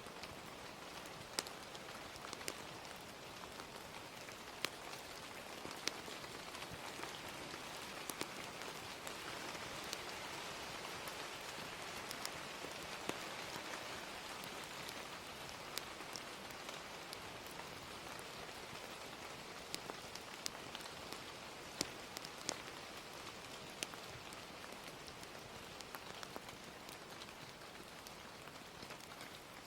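Steady rain hiss with scattered sharp pops and crackles from a wood fire, a dozen or so irregular snaps over the stretch.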